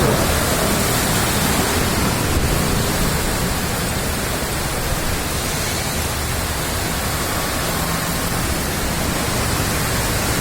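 Steady rushing noise of a heavy downpour and storm runoff water pouring through the streets in a torrent.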